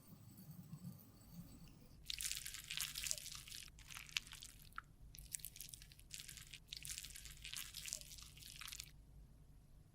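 Crisp scratching and crackling in several bursts, each up to about two seconds long, from a makeup product being worked by hand in close-up.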